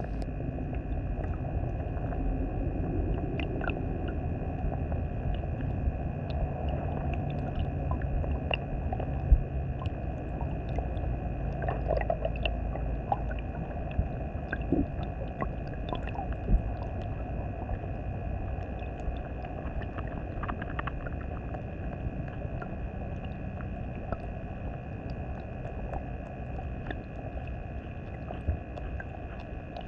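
Underwater sound of a flowing irrigation canal: a low rumble of the current with scattered small clicks and ticks. Over it runs a steady, faint motor-like hum from the camera, which comes from it being kept in the water for a long time.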